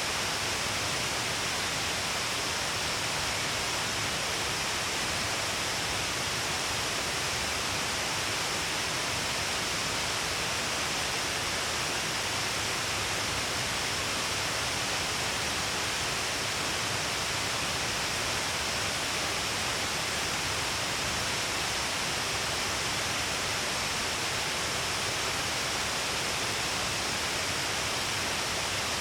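Waterfall falling, a steady, unbroken rush of water with a bright hiss of spray.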